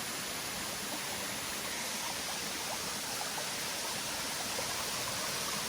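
Steady rush of a waterfall, water plunging over rocky ledges in a wooded gorge.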